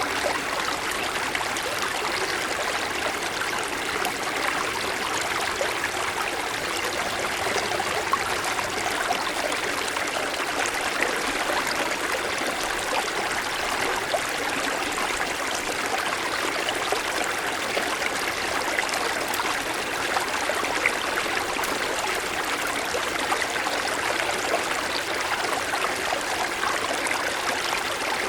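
Mountain stream running over snow-covered stones: steady rushing and burbling water with small splashes.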